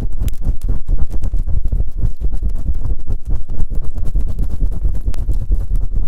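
Fast rubbing and scraping on a binaural microphone's ears: a rapid run of deep, crunchy strokes, several a second, with a few sharp clicks among them.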